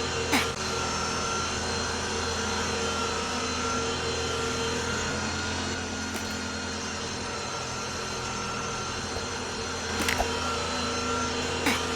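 A steady machine drone with several held hums, broken by a few short sharp clicks about half a second in and again near the end.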